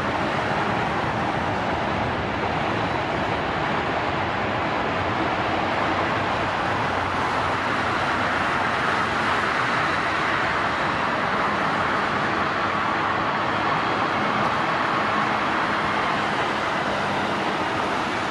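Jet airliner engines: a steady rushing noise with no breaks, growing a little stronger in the middle.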